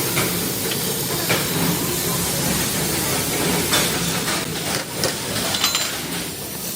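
Steady hissing workshop noise, with a few faint knocks and a brief high ring about four seconds in.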